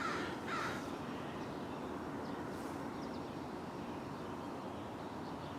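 Steady low rumble of a distant Sounder commuter train, with a few faint high chirps about two and a half seconds in.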